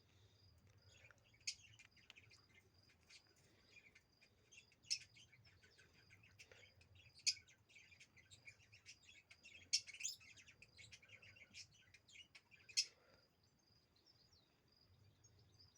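Ducklings peeping: many short, high-pitched peeps at an irregular pace, a few louder ones standing out every couple of seconds, thinning out near the end. A faint steady high tone runs underneath.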